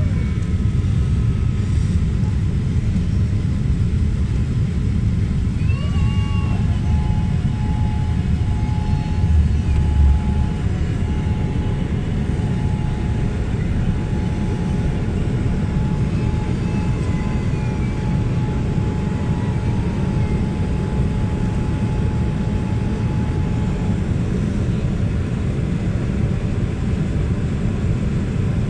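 Airliner cabin noise during the landing approach: a steady low rumble of engines and airflow. A faint steady whine runs through much of the middle, with a few brief wavering high cries over it.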